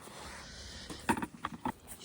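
A few soft footsteps, spaced irregularly, over a faint background hiss, starting about a second in.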